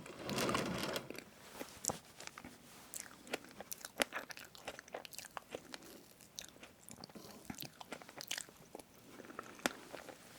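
Close-miked eating of a strawberry whipped-cream cake: soft chewing with many short, sharp clicks and smacks.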